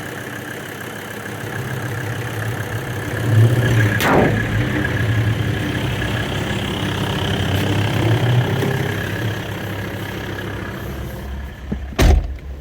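Mercedes turbo diesel engine idling steadily while still cold and not yet warmed up. A sharp slam comes about four seconds in, and a heavier thump near the end.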